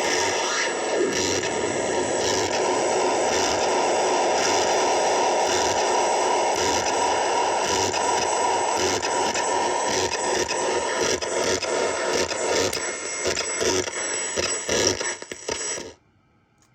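JMT custom noise synth playing harsh, scraping noise through a Sketchy Sounds Old Tapes lo-fi tape-echo delay pedal, dense and continuous. It breaks into choppier stutters in the last few seconds, then cuts off suddenly near the end.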